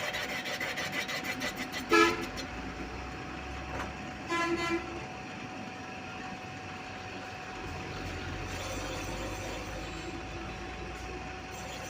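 Two short vehicle horn toots, the first and loudest about two seconds in and a second one about four and a half seconds in, over a steady faint hum. In the first two seconds there is also a fast run of ticks.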